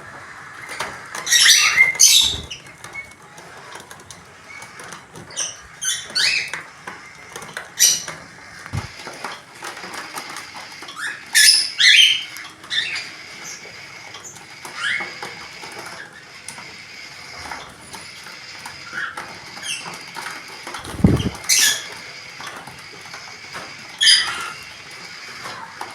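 Pet budgerigars giving short, sharp chirps and squeaky calls at irregular intervals, some gliding downward, over a faint steady high tone. Late on, a single low bump sounds along with a call.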